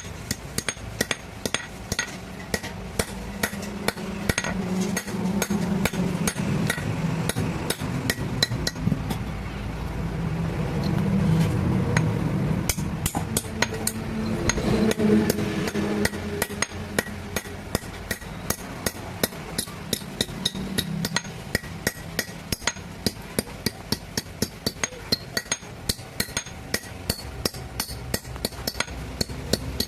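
Blacksmith's hammer striking metal on an anvil in a steady rhythm, about two to three blows a second, each with a bright metallic ring. The blows pause briefly about a third of the way in, and a low steady hum runs underneath.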